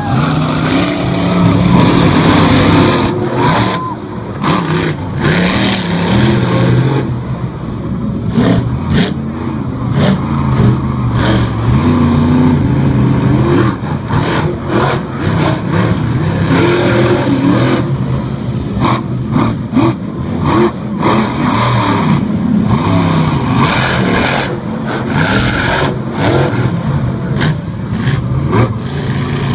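Monster truck engines revving hard and unevenly, their pitch rising and falling again and again, with frequent sharp knocks and bangs.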